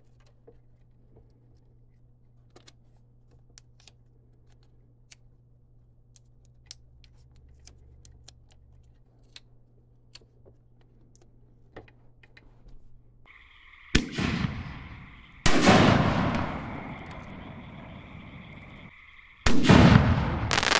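Faint clicks and rustles of fuse being fitted to a rack of mortar tubes. About two-thirds through, aerial firework shells start firing from mortars: a sharp bang, then a loud boom that dies away slowly over several seconds. Near the end comes another loud boom followed by rapid crackling cracks.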